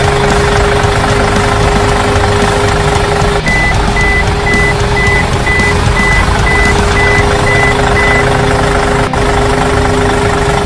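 Truck engine sound running steadily, with a reversing alarm beeping evenly, two to three beeps a second, from a few seconds in until about two-thirds of the way through.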